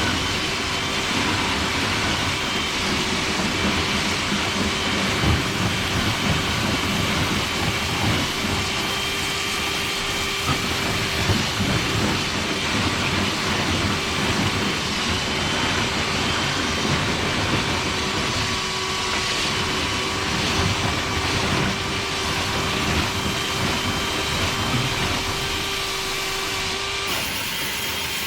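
Dryer vent cleaning equipment running steadily: a machine whine over a rushing, rumbling flow of air through the duct as lint is blown out. The whine stops about a second before the end.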